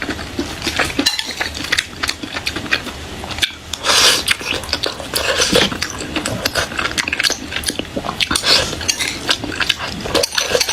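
Eating utensils clicking and scraping against a dish, a run of small sharp clicks with short scrapes between them.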